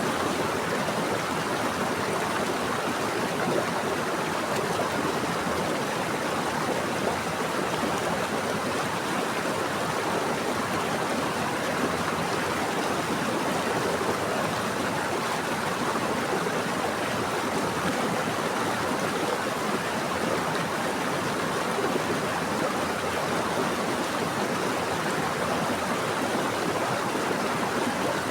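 Running water of a stream flowing steadily, an even rushing and gurgling with no breaks.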